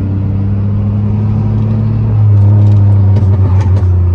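Loud, deep exhaust note of a 2002 Pontiac Grand Prix GT's 3.8-litre V6 running with its muffler deleted, growing louder about two seconds in as the engine is given more throttle.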